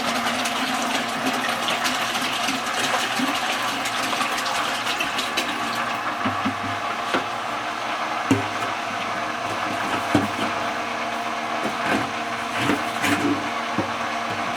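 Water pouring from a hose into a bucket while a small pump hums steadily, circulating vinegar through a tankless water heater to descale it. There are a few short knocks in the second half.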